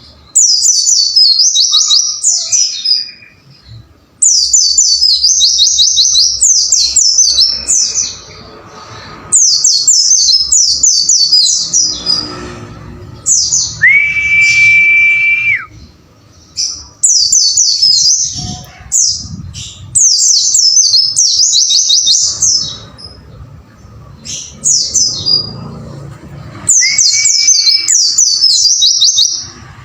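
White-eye (pleci) song: rapid, loud bursts of high twittering 'wucit wucit' chirps repeated phrase after phrase with short pauses. A long flat whistle sounds about halfway through, and a shorter one near the end.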